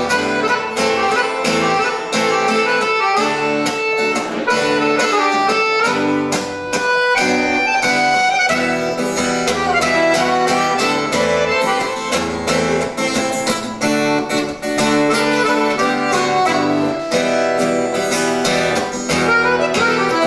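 Accordion and guitar playing an instrumental break in a song, with sustained accordion notes over a steady strummed beat and no singing.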